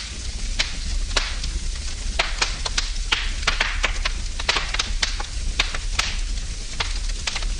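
Wood fire in a fireplace crackling, with many irregular sharp pops and snaps over a steady low rumble and hiss of burning.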